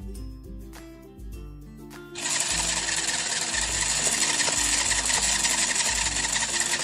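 Light background music, then about two seconds in a loud, steady whirring starts and keeps going: a toy stand mixer running.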